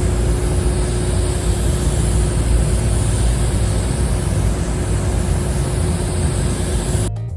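1999 Chevrolet K1500 Suburban running, a steady low engine rumble with a faint steady hum over it.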